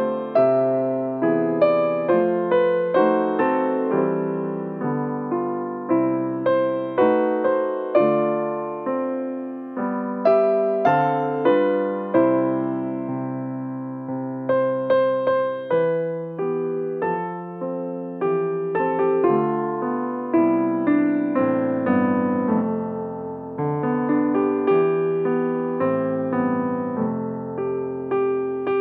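Piano music: chords and a melody played at a moderate pace, each note struck and dying away.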